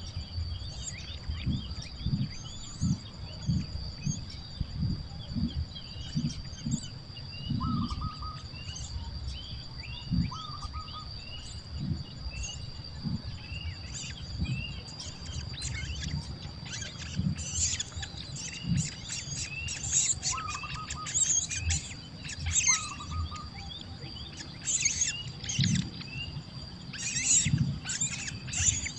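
Birds chirping: many short, rapid high cheeps that grow denser in the second half, with a few lower two-note calls. A steady high-pitched tone and frequent low knocks run underneath.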